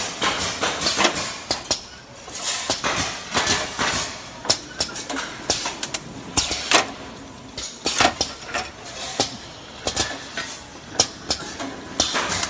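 Automatic chopstick and skewer packing machine running: irregular sharp clacks and rattles, several a second.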